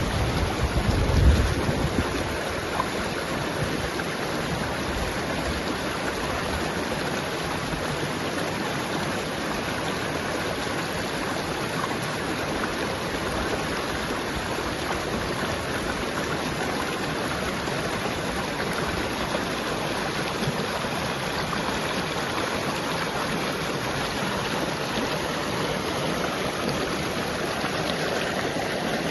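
Steady rushing of water with an even hiss that does not change. About a second in there is a brief low buffet of wind on the microphone.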